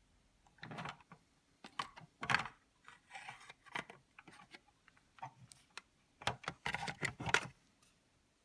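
Irregular clicks, knocks and rattles of a plastic yogurt-maker housing being handled and pushed apart, coming in clusters about half a second in, around two to four seconds, and again near the end.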